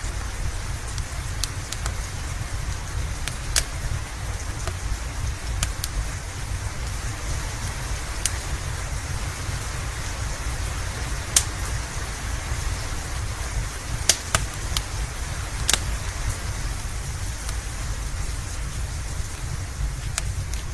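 Steady rain with a continuous low rumble, over which a fireplace crackles with a dozen or so sharp, scattered pops.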